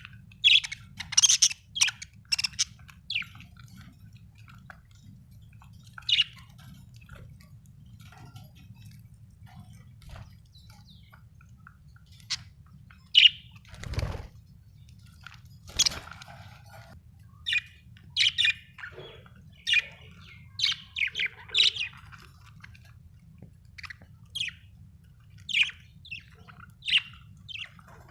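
Budgerigar chirping: short high chirps in irregular clusters with pauses between, over a faint low hum. A dull thump sounds about halfway through.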